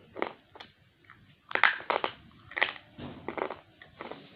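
Slate pencil being bitten and crunched between the teeth: a run of irregular sharp crunches, loudest between about one and a half and three seconds in.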